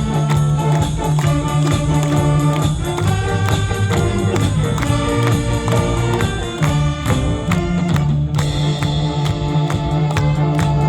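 Saxophone big band playing a medley of Korean pop and trot songs live, with a steady beat.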